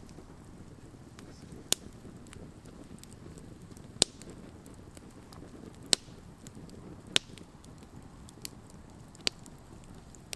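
Wood campfire burning: a steady low rush of flame with about half a dozen sharp, irregularly spaced pops and cracks from the burning wood.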